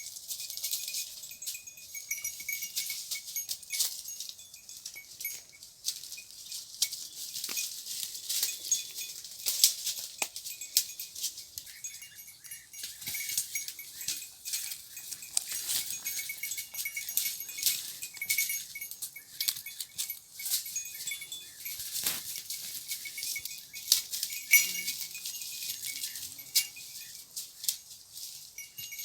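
Goat bells clinking and jangling irregularly as the goats move, with scattered sharp clicks.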